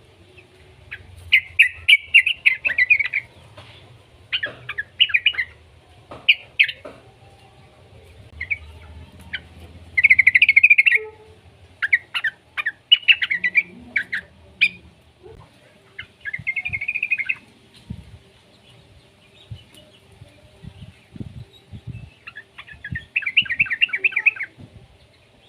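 Young yellow-vented bulbul (trucukan) singing: short bursts of rapid, bubbly chattering notes, repeated every few seconds with pauses between.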